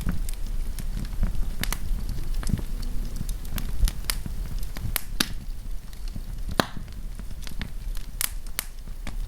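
Campfire burning, wood crackling and popping in sharp irregular snaps over a low rumble of the flames.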